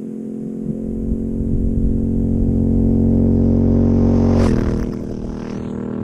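Yamaha Tenere 700's 689 cc parallel-twin engine running under load on a ride, getting louder for about four seconds, then easing back sharply about four and a half seconds in.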